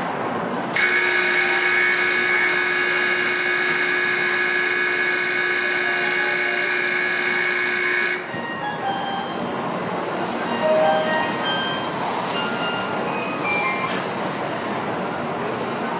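Shinkansen platform departure bell ringing steadily for about seven seconds, starting and cutting off abruptly: the signal that the train is about to leave. Platform and train noise continue after it stops.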